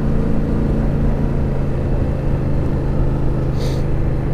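Yamaha FZ-07 parallel-twin engine running steadily under way, mixed with drive-chain noise that the rider blames on a poorly maintained, unlubricated chain. A brief hiss comes about three and a half seconds in.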